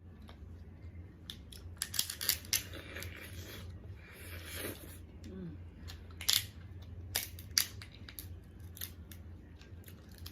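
Crab shell being cracked and picked apart to get the meat out, a few sharp cracks and snaps with some rustling between them, over a steady low hum.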